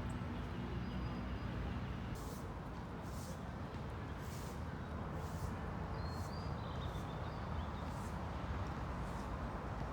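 City park ambience: a steady rumble of distant traffic with a few brief bird chirps, and a soft scuffing sound about once a second.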